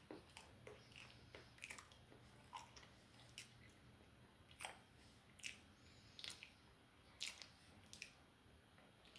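Faint close-up chewing of food: irregular short mouth clicks, about one or two a second.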